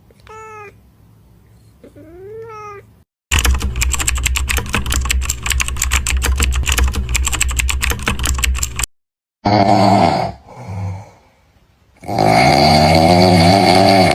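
Cat sounds edited together: two short meows, then several seconds of rapid keyboard-like clicking, then loud, wavering cat yowls near the end.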